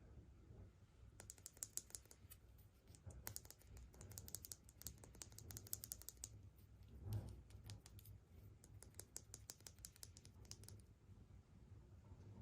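Quiet, rapid crinkling and clicking from a surprise egg's wrapper and small plastic pieces being handled, in two spells with a soft thump between them.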